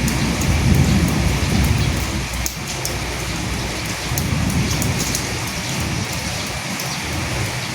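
Steady rain falling on dead leaves, with fine drop patter throughout. A low rumble swells during the first two seconds and again around four seconds in.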